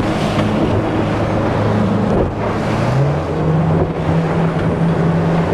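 Boat motor running steadily, its pitch stepping up about three seconds in as the throttle is opened, then holding at the higher speed.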